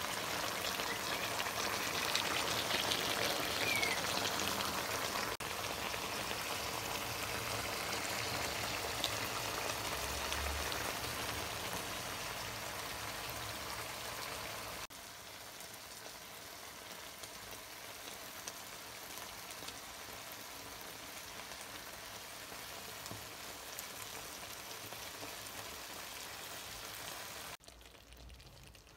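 Mutton and tomatoes frying in a metal karahi, a steady sizzling hiss that drops quieter about halfway through and again near the end.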